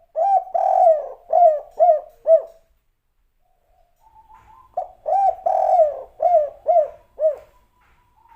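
Spotted dove (derkuku, of the 'kuk 3' song type) cooing: two phrases of about six low, hooting coos each, a pause of about two seconds between them.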